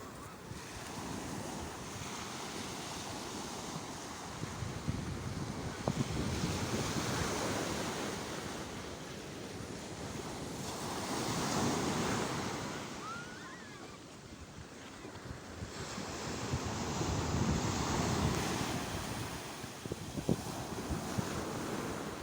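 Sea waves breaking and washing ashore, the surf swelling and easing about every five to six seconds. Wind buffets the microphone throughout.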